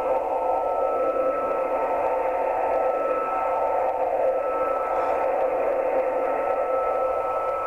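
Shortwave receiver audio tuned to 11.175 MHz, carrying a continuous unidentified signal: a steady rushing noise with a thin steady whistle running through it. The listener calls it a really weird noise and takes it for some kind of data transmission.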